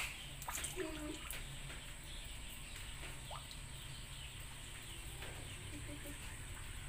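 Faint outdoor bird ambience: a dove cooing briefly about a second in, with scattered faint chirps over a low steady hum and a thin steady high tone.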